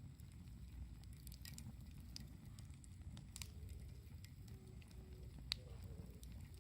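Wood campfire burning: scattered small crackles and pops over a low rumble, with one sharper pop about five and a half seconds in.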